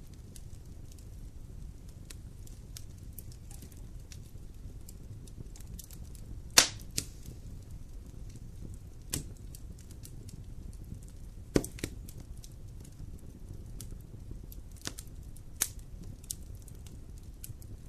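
Campfire burning: a low steady rumble with scattered sharp pops and cracks from the burning wood, the loudest about six and a half seconds in.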